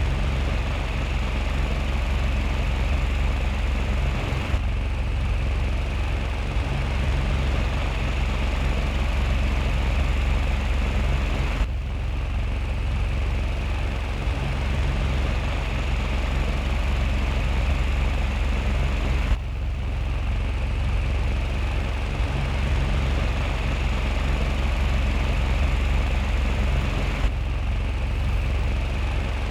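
Small electric fan running steadily: a low motor hum with a hiss of moving air, broken by brief cuts about every seven or eight seconds.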